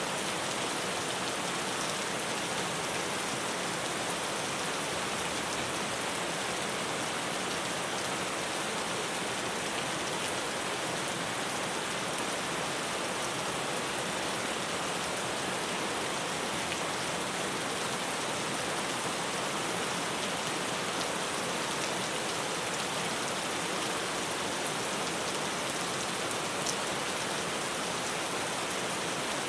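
Steady rain falling on a tin roof, an even dense patter with a few sharper drop ticks.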